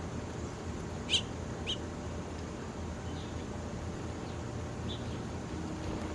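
A small bird chirping: two sharp high chirps about a second in, then a few fainter chirps, over a steady low rumble.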